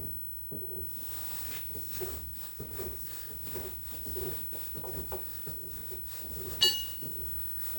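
Ram of a Zocca 500 metal shaper being worked through its stroke by hand along its freshly adjusted dovetail slideway: a soft, irregular sliding and rubbing, with no motor running. A sharp ringing clink comes about six and a half seconds in.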